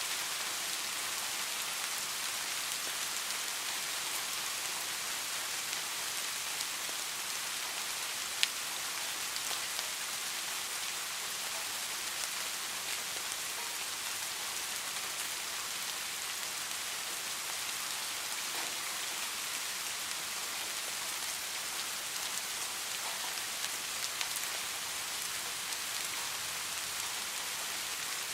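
Steady rain falling, an even hiss with scattered drop ticks and one sharper tick about a third of the way in.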